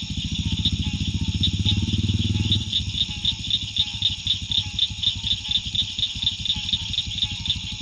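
Single-cylinder dual-sport motorcycle engine running with a fast, even beat of firing pulses. It pulls harder for the first couple of seconds, then eases off to a steadier, lighter run.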